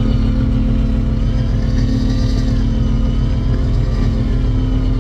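Fishing boat's engine running steadily with a constant drone, with a fainter higher whine that slowly wavers in pitch over it.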